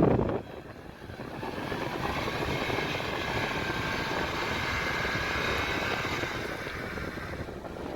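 A loud thump right at the start, then a UAZ 4x4's engine running steadily under load with a broad noisy rush, its pitch wavering slightly.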